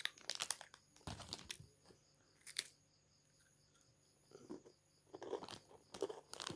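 Crunchy snack being bitten and chewed close to the microphone: a quick run of crunches in the first second and a half, a lone crunch, a pause, then crunching again from about four and a half seconds in.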